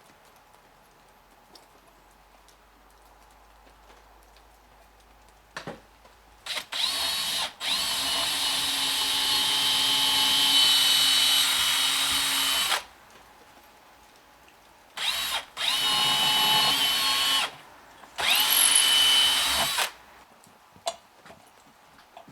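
Power drill boring hinge holes in a wooden door: several runs starting about six seconds in, the motor whining up in pitch at the start of each, the longest run about five seconds.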